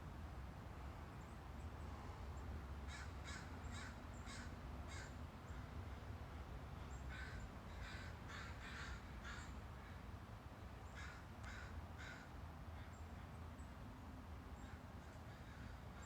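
Crows cawing in groups of short calls: about five around three seconds in, a quicker run from about seven to nine seconds, and three more around eleven seconds, with a few fainter caws later. A steady low rumble runs underneath.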